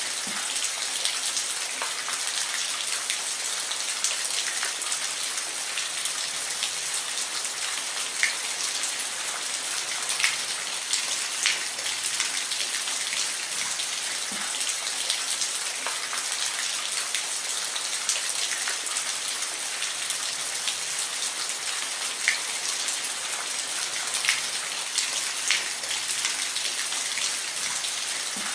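Steady rain falling, a dense even hiss with louder single drops ticking out from it now and then.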